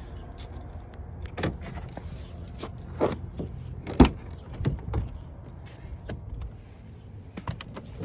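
Car keys jangling, with a few sharp knocks and clunks; the loudest comes about four seconds in.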